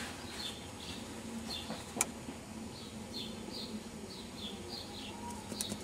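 A small bird chirping over and over, short high chirps about twice a second, with a single sharp click about two seconds in.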